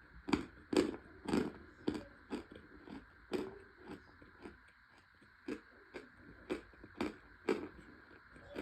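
Close-up chewing of hard, crunchy chunks of compressed cornstarch: sharp crunches about two a second at first, then spacing out and fading toward the end.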